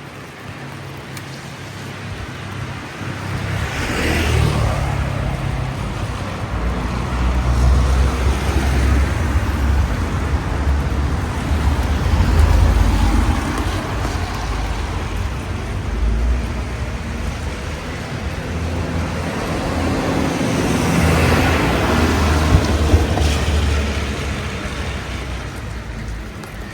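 Street traffic on wet roads: cars passing with tyre hiss over a steady low rumble, two passes swelling and fading about four seconds in and again near twenty seconds in.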